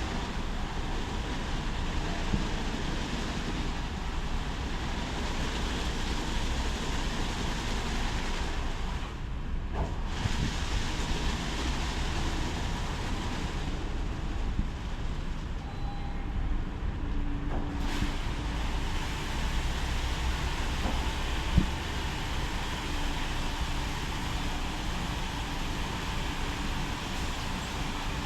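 Automatic car wash running: a steady rush of water spray over a low mechanical rumble, with one sharp knock about two-thirds of the way through.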